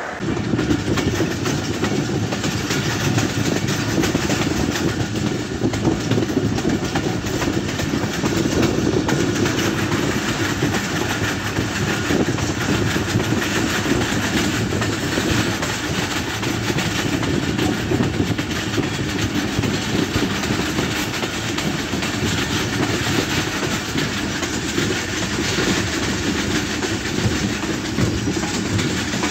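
Pakistan Railways passenger train running at speed, heard from aboard: a steady loud rumble with the rattle of wheels on the track.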